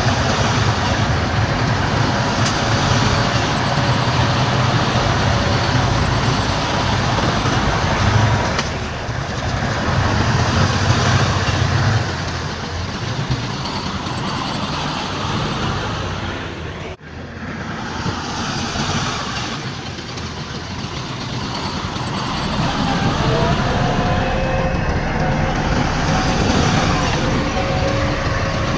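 Heavy diesel earthmoving machinery, bulldozer or dump truck, running steadily with a deep engine drone and clattering noise. The sound drops out sharply for an instant just past halfway, and a thin whine rises near the end.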